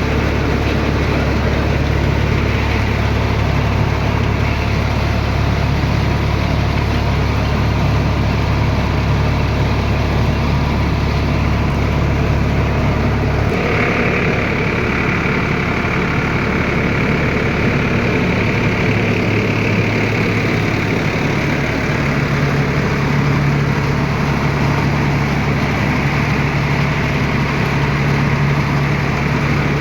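Tractor engine running steadily to drive a rice mill. About 13 seconds in, the note changes: the deep hum drops and a higher whine comes in.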